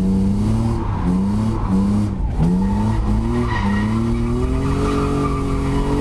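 BMW M52 2.5-litre straight-six in an E36 Compact being revved hard while drifting. The revs drop and pick up again several times with the throttle, then climb steadily, over tyre squeal.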